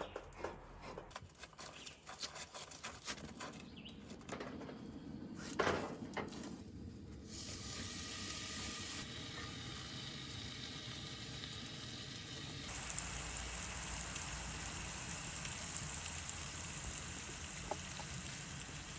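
Bacon frying in a pan: a steady sizzle that sets in about seven seconds in, after some scattered clicks and knocks.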